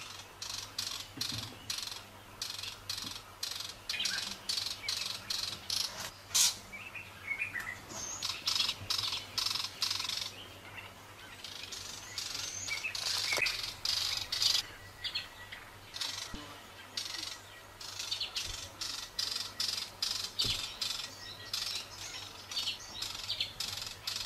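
A small bird chirping rapidly and repeatedly, several high chirps a second, with a brief lull about halfway through.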